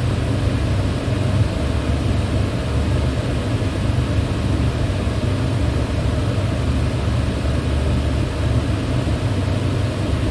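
Electric fan running steadily: a constant low hum under an even rush of air.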